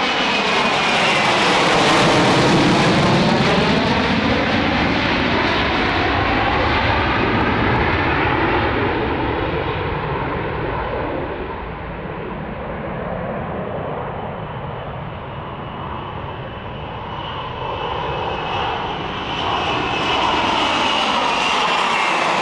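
F-35B's single jet engine running loud, with a high turbine whine and a swirling, phasing sweep as the aircraft moves. It grows quieter about halfway through, then builds up again near the end.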